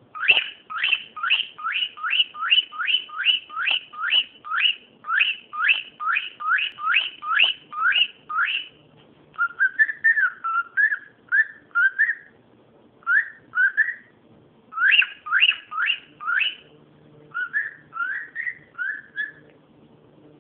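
A cockatiel calling: a fast run of loud rising whistles, about two and a half a second, then shorter, lower warbling notes in irregular bursts with pauses between them.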